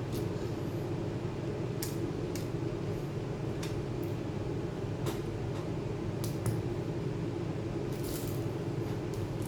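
A handful of small, sharp clicks and taps at irregular moments over a steady low hum.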